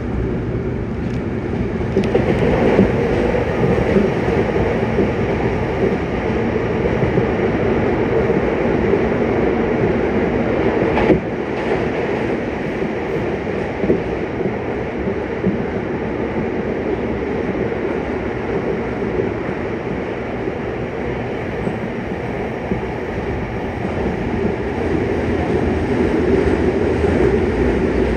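Yokohama Municipal Subway Blue Line 3000N-series train running at speed underground, heard from inside the car: a steady rumble of wheels on rail, with a sharp knock about eleven seconds in.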